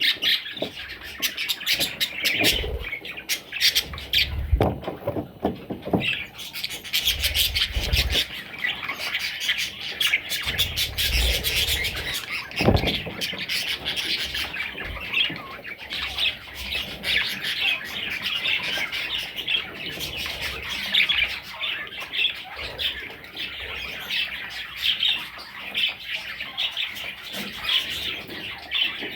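A flock of budgerigars chirping and chattering continuously in a dense, busy stream of calls. Several low thumps come through in the first half.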